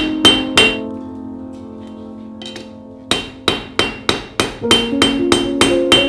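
Blacksmith's hammer striking steel on an anvil: a quick run of ringing blows about three a second, which stops for about two seconds and starts again about three seconds in. Music plays underneath.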